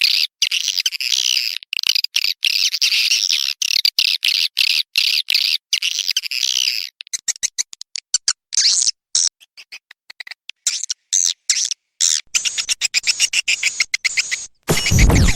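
Swiftlets twittering densely in high chirps, a lure-call recording meant to draw swiftlets into a nesting house. The calls cut in and out with many short gaps and thin out about halfway. Near the end a loud, rough scratching noise breaks in.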